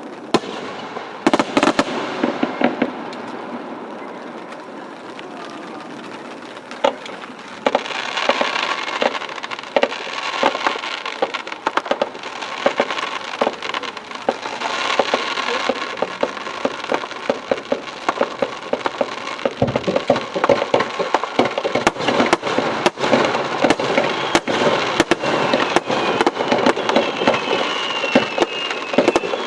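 Aerial fireworks shells bursting: scattered sharp bangs at first, then long stretches of crackling, and in the last third a rapid string of sharp reports. Near the end a faint falling whistle runs under the bangs.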